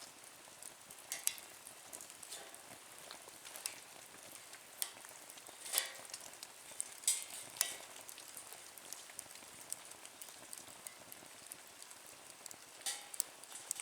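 Wood fire crackling in a small nature stove: irregular sharp pops and snaps over a soft steady hiss, with a few louder pops about halfway through.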